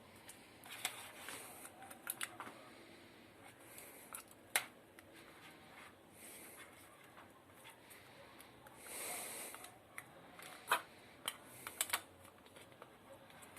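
Light clicks, taps and rustles of small plastic parts and tools being handled during a blender repair, a few sharper clicks standing out, with a short rustle in the middle.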